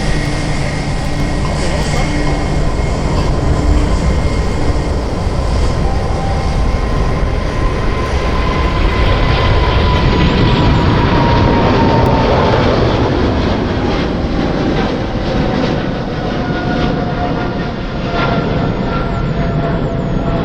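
Jet airliner's engines passing by: a loud, steady rush with a whine that slides downward in pitch around the middle as the noise swells, then eases off.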